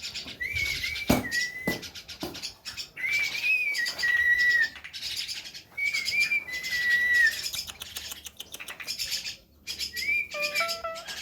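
Javan myna whistling a short two-part phrase, a rise and fall followed by a level note, about four times, over scratchy chatter. Two dull knocks sound about a second in, and music begins near the end.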